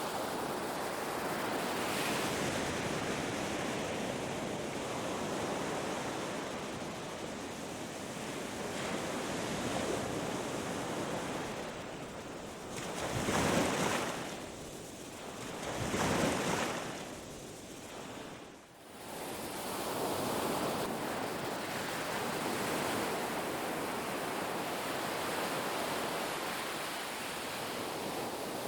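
Ocean surf washing onto a beach in a steady wash. About halfway through, two louder waves break about two and a half seconds apart, followed by a brief lull before the wash returns.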